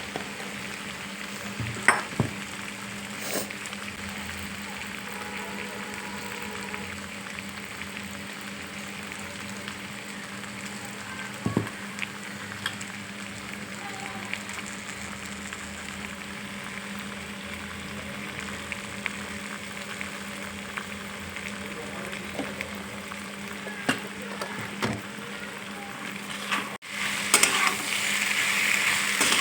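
Food sizzling steadily in hot oil in a pan, with a few sharp knocks of a utensil against it. Near the end, after a brief break, the sizzling is louder.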